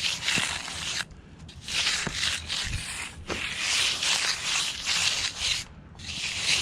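Long scraping strokes of a hand finishing tool across wet concrete, broken by short pauses about a second in and again near the end.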